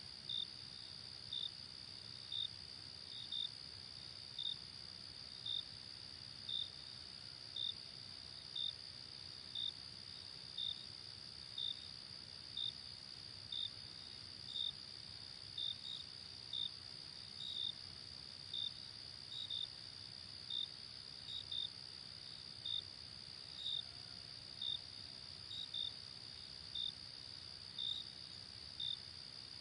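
Night insect chorus: a steady high-pitched cricket trill, with one nearer cricket chirping about once a second on a slightly lower note.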